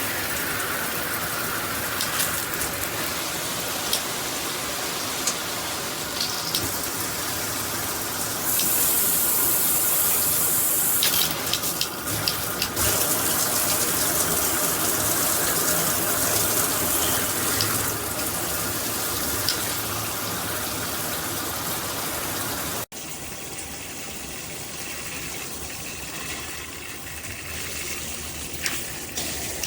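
Water spraying from a multi-mode filtered shower head as a steady rushing hiss. It grows louder and brighter for a few seconds about a third of the way in, then drops abruptly to a quieter spray about 23 seconds in.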